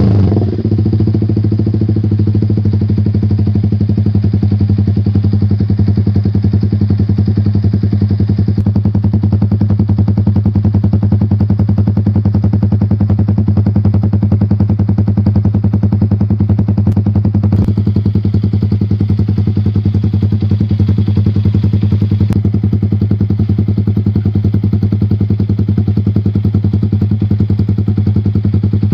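Motorcycle with an SC-Project aftermarket exhaust, dropping back from a throttle blip at the very start and then idling steadily through the pipe.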